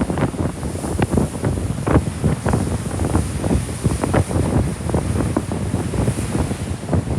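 Wind buffeting the microphone in uneven gusts, over the wash of ocean surf.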